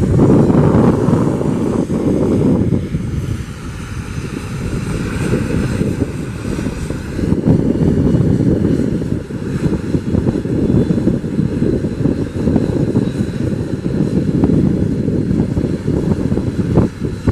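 ATR 72-600 turboprop airliner's engines and propellers running, a loud steady rumble with a higher tone that slides in pitch a couple of seconds in.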